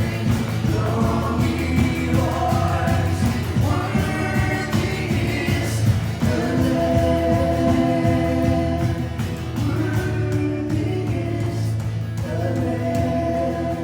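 Worship song: several voices singing together with long held notes over instrumental accompaniment.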